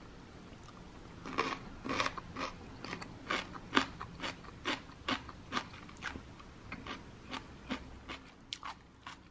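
Crisp, crunchy chewing of celery kkakdugi (celery cube kimchi), about two crunches a second, starting about a second in.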